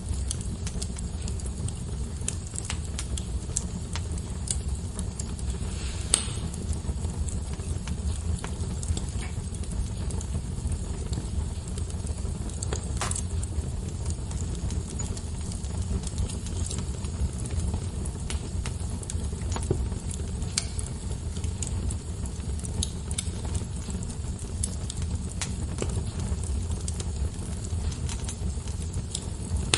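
Wood fire crackling, with scattered small pops over a steady low rumble of the flames; two louder pops stand out, about 6 and 13 seconds in.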